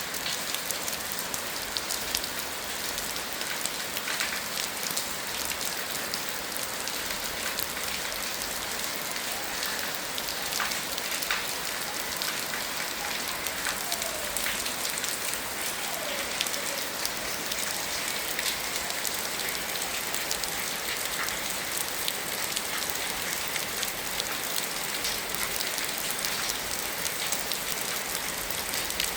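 Steady rain falling on hard surfaces, a dense even hiss with many small, sharp drop ticks throughout.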